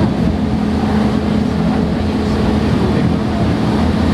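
Snowdon Mountain Railway rack train climbing a steep gradient, heard from inside the carriage: a steady, loud engine drone with a constant low hum and running noise, the locomotive working hard under load.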